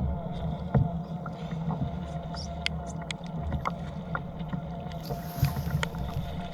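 Wind rumbling on the microphone and choppy water slapping against a kayak's hull at sea, with scattered small clicks and taps and a brief hiss about five seconds in.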